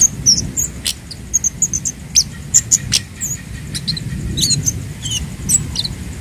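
Kemade (cabe Jawa) calling: a rapid string of short, high, thin chips and quick twittering notes, over a steady low rumble.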